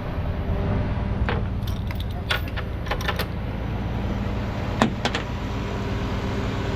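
Tow truck's engine running steadily, with a run of light metallic clinks and clicks in the first few seconds and a sharper knock about five seconds in, as gear is stowed on the truck.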